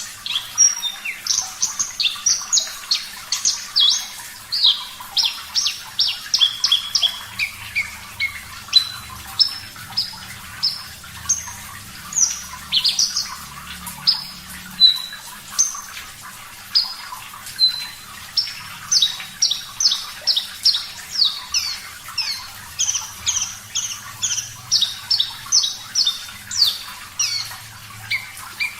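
Javan bush lark (branjangan, parva race) singing a long, unbroken song of rapid short chirps and quick falling notes, several each second.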